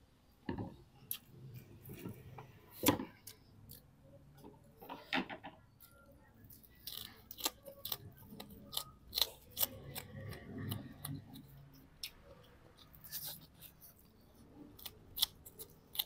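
Close-up eating sounds: a man chewing mouthfuls of rice, pako fern and grilled tilapia eaten by hand, with irregular sharp clicks and crunches. The loudest is a sharp click about three seconds in.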